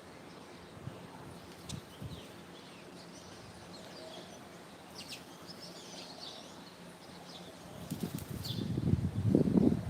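A bird's wings flapping hard and loud near the end, after a stretch of faint bird chirps and a few light clicks.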